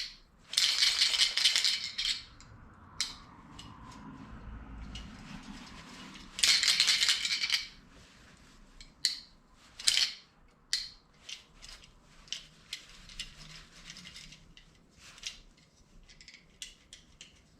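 Ford fuel-pump inertia safety switch shaken by hand, the ball inside rattling in its housing in two longer bursts with many short clicks between.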